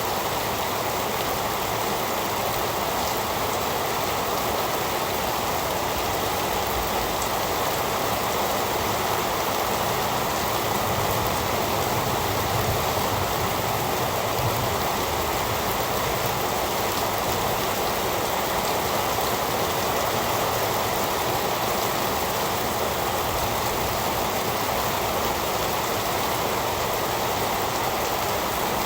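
Heavy rain falling steadily, a continuous even hiss with no thunder.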